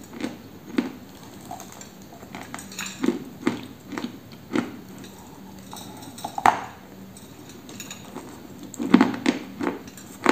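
Biting and chewing a dry, chalky white lump held close to the microphone: a string of sharp, dry crunches, with one loud bite about six and a half seconds in and a cluster of loud crunches about nine seconds in.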